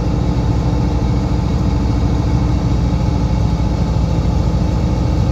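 Loaded semi truck's diesel engine running steadily at highway speed, a low, even drone heard from inside the cab.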